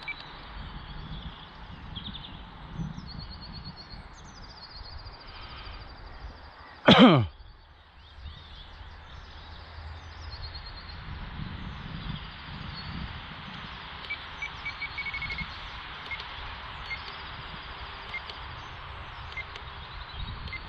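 Open-field ambience: wind buffeting the microphone and small birds chirping and trilling. About seven seconds in, one brief, loud sweeping tone stands well above everything else.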